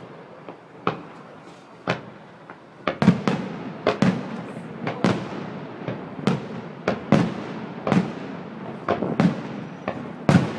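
Aerial fireworks shells bursting: a couple of separate booms at first, then from about three seconds in a rapid barrage of booms, several a second.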